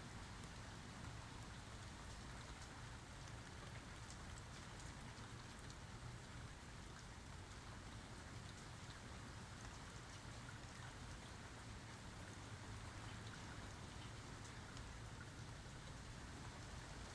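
Steady rainfall, a continuous patter of drops falling on surfaces, with faint individual drip ticks and no thunder.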